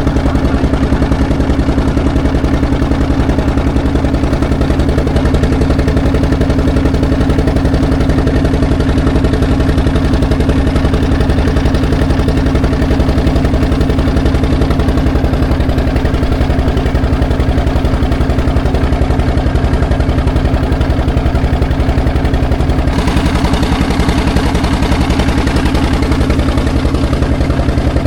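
An engine running steadily at an even speed, loud and continuous, with a slight shift in its tone about 23 seconds in.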